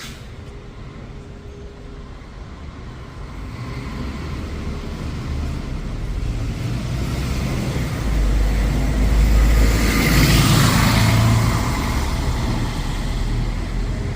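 A bus approaching and passing, its engine and road noise building steadily to loudest about ten seconds in, then easing a little.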